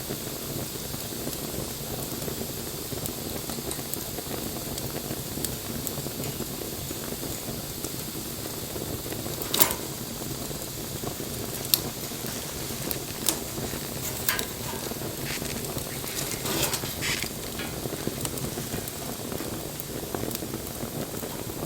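Wood campfire burning: a steady hiss with scattered sharp crackles and pops, most of them in the middle of the stretch.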